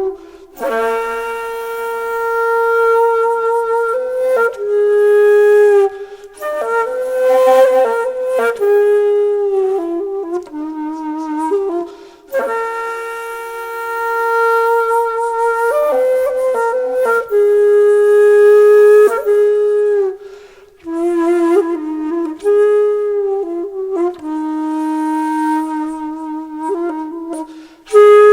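Solo flute playing a slow melody of long held notes with vibrato, in phrases broken by brief pauses.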